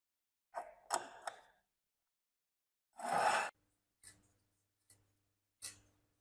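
Metal parts and tools being handled during a rusty machine's restoration: a quick cluster of three clinks, a short scraping rasp about three seconds in, then single light knocks about once a second.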